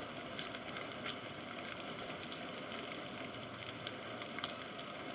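Steady rain: an even hiss with many scattered sharp ticks of drops striking, one louder tick about four and a half seconds in.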